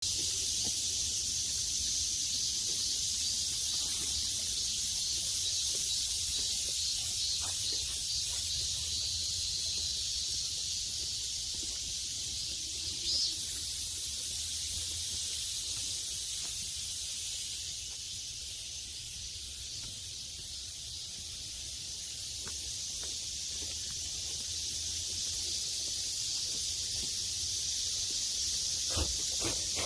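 Steady, high-pitched outdoor hiss with a low rumble beneath, joined by a brighter, higher buzz from about 13 to 17 seconds in, and a few short clicks near the end.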